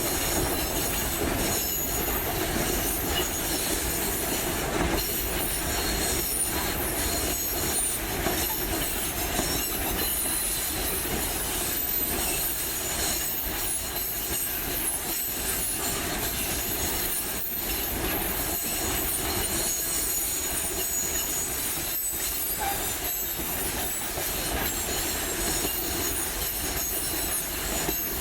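Freight train rolling along the track, its steel wheels squealing against the rails in steady high-pitched tones over a continuous rumble of the wagons.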